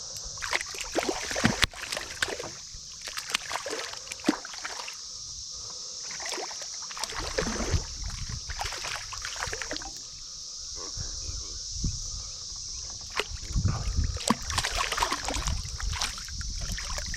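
Water splashing and sloshing in irregular bursts, as from paddling or wading, over a steady high hiss; a low rumble joins about halfway through.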